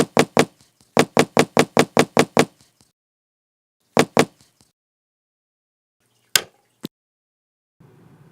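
Hammering sound effect: quick runs of sharp knocks about five a second, then two more knocks, then a single sharp crack and a click.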